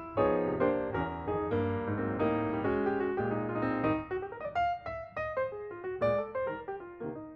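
Background music played on piano: sustained chords with a low bass line, giving way about four seconds in to quicker single notes higher up.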